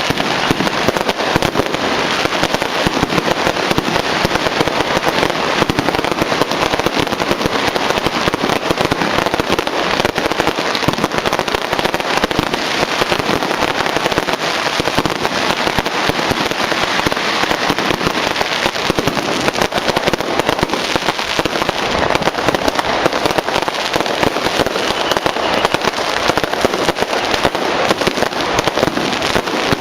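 Firecrackers going off without a break in a loud, dense, rapid crackle, like a long string of Taiwanese firecrackers set off as a salute to a passing Mazu palanquin.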